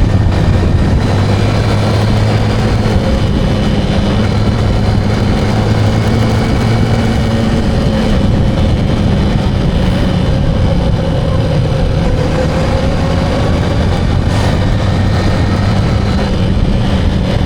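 Motorcycle engine running at a steady pace while riding, with a continuous low drone and road noise.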